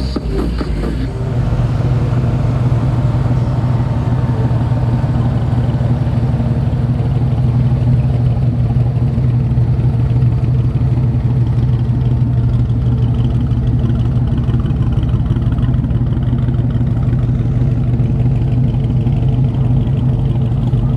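A car engine running steadily at low revs with a low, even note. Music in the background stops about a second in.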